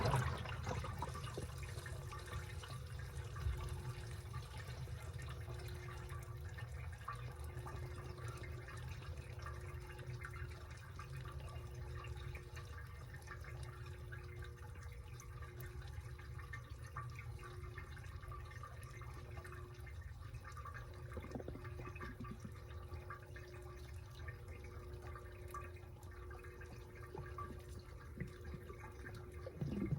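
Washing machine running mid-cycle: a steady low hum with water sloshing and dripping in the drum, and a faint whine that cuts in and out every second or two.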